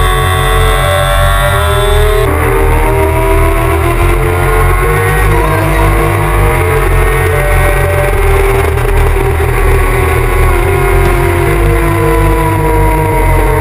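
Honda CBR600RR's inline-four engine revving hard under acceleration, its pitch climbing and dropping back several times as it shifts and rolls off through the bends. Drum and bass music with a pulsing bass line plays over it.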